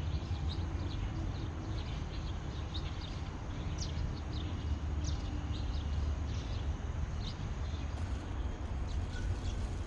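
Small birds chirping in short high notes, scattered throughout, over a steady low rumble.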